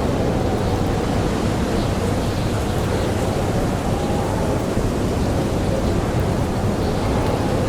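Blizzard wind blowing steadily, a dense rush with a faint wavering howl through it, and an occasional faint crackle from a campfire.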